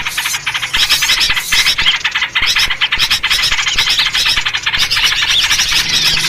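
Dense, noisy chorus of many small songbirds chattering and chirping rapidly without a break, with the calls of yellow-vented bulbuls (trucuk) in the mix. This is a bird-lure recording of excited birds, played to draw in small birds.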